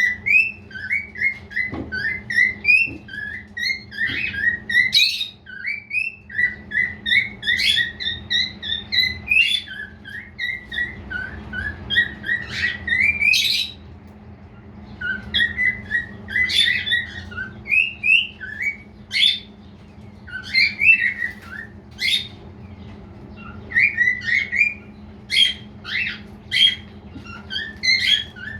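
Male cockatiel whistling and chirping: a quick run of short, rising whistled notes for about the first half, a brief pause, then more widely spaced chirps and sharp calls.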